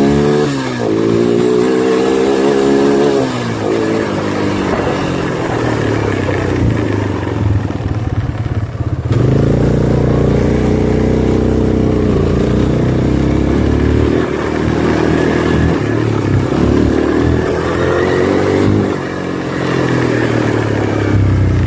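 Four-wheeler (ATV) engine revving under acceleration while riding, its pitch climbing and falling as it speeds up and shifts. From about nine seconds in it runs louder and harder at higher revs.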